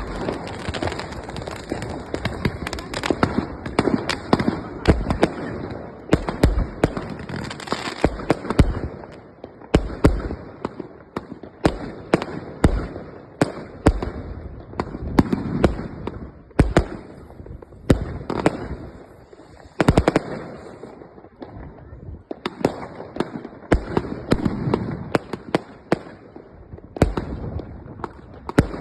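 Fireworks going off: many sharp bangs and cracks at irregular intervals, often several close together.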